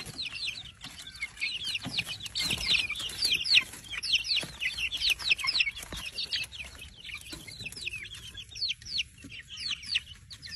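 A flock of chickens peeping and clucking, a rapid stream of short high calls, several a second, each sliding down in pitch.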